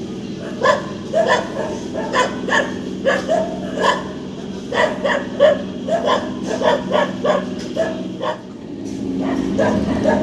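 A dog barking over and over in quick runs of short barks, over a steady low hum. A rising rumble builds near the end.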